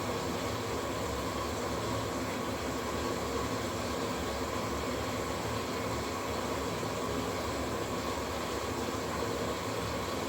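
Washing machine running: a steady, even mechanical noise with a low hum underneath.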